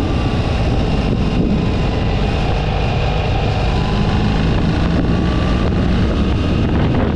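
Motorcycle riding at speed: the engine runs steadily under heavy wind noise on the microphone.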